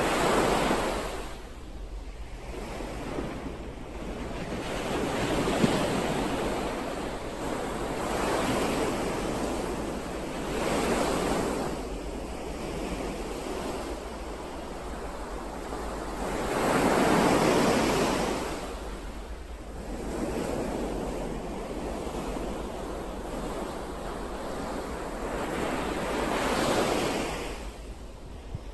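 Ocean waves breaking and washing in. The noise swells and ebbs in surges every few seconds, and the biggest comes about halfway through.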